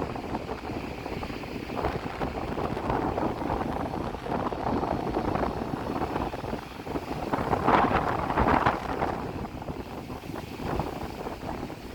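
Strong wind buffeting the microphone over the rush of breaking surf, with a louder rush about eight seconds in.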